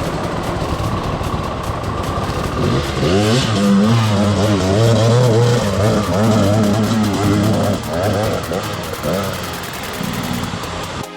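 Beta dirt bike engine running. From about three seconds in it revs, its pitch rising and falling repeatedly, then drops back near the end.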